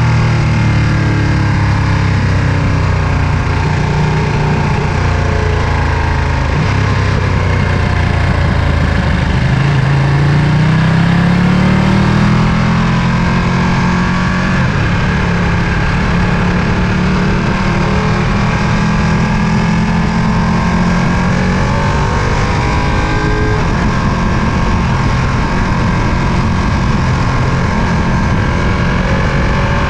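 Ducati Panigale V2's 955 cc L-twin engine running under way. Its pitch climbs as it accelerates about ten seconds in, then holds steady at cruising revs.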